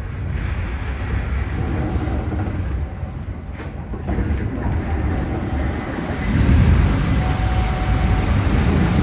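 Staten Island Railway train running: a low rumble with a thin, steady high whine, growing louder about six seconds in.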